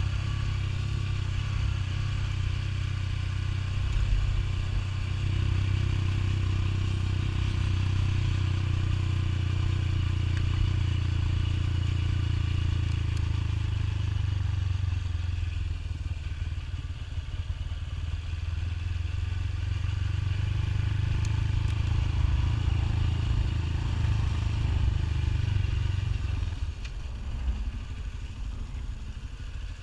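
Motorcycle engine running steadily while riding, with a steady rush of noise over it. The engine note drops away near the end.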